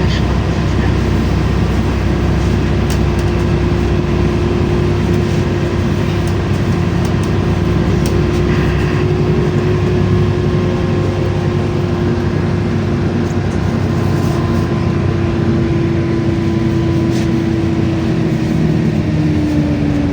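LiAZ-5292.65 city bus heard from inside while driving: a steady low rumble of engine and road, with a whine that falls in pitch near the end.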